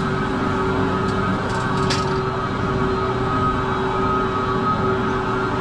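Chair lift drive machinery running steadily at the loading station: a constant mechanical hum with a steady high whine over it, and a few light clicks about two seconds in.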